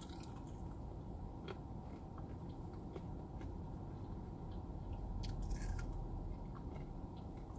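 Person biting and chewing a sauced fried chicken wing: faint wet chewing with soft clicks, and a brief run of crisper crunches about five seconds in as a new bite is taken.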